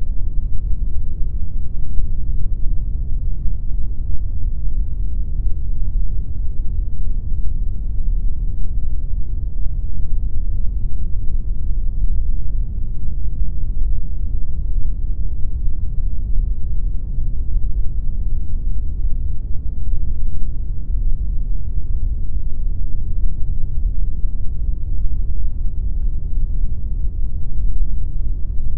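Steady synthetic pink noise: an even, unchanging hiss-like rush, weighted heavily toward the deep end with little treble.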